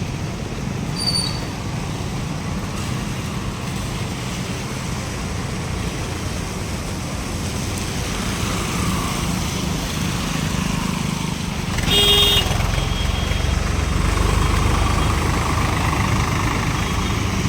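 Steady road traffic noise with vehicles passing, and a short vehicle horn honk about two-thirds of the way in.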